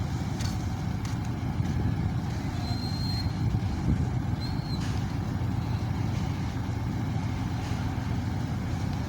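Steady low engine rumble with a few faint knocks and a brief high whistle-like tone about three seconds in.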